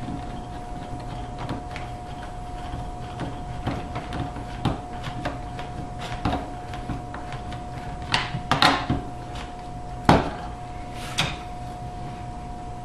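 Scattered clicks and knocks of a hose clamp and plastic dishwasher sump parts being handled and fastened, the sharpest knock about ten seconds in, over a steady faint hum.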